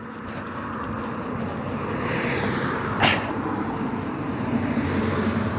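A vehicle passing on a nearby road: a steady noise that grows louder, with one sharp click about three seconds in.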